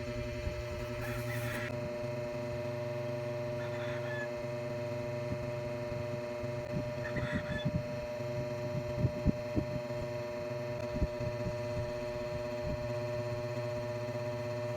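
Steady background hum made of several constant low tones, with a few brief scratchy noises and soft knocks over it.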